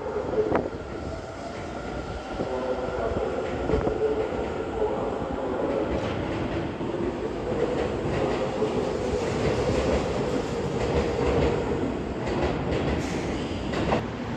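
Seibu Railway electric commuter train pulling out of the platform: a steady motor hum and running noise, with wheels clacking over rail joints several times as it picks up speed.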